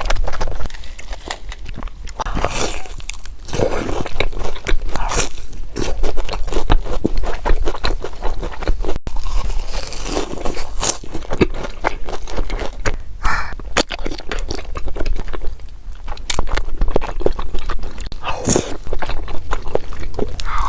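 A person eating crisp food: repeated crunching bites and chewing, loud and close.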